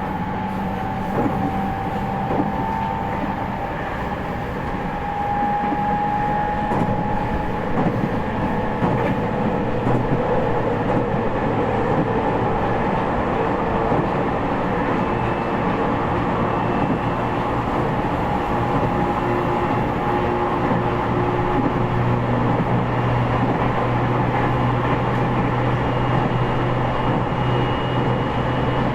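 Running sound from inside a JR East E501 series motor car on the move: a steady rumble of wheels on rail, with thin whining tones from its Toshiba IGBT inverter-driven traction motors. The sound grows a little louder about five seconds in.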